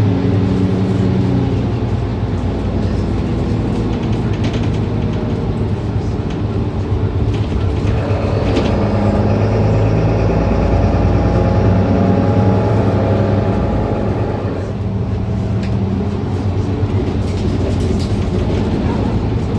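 Mercedes-Benz Citaro C2 city bus engine running under way, its hum rising in pitch about eight seconds in, loudest shortly after, and easing off again around fifteen seconds.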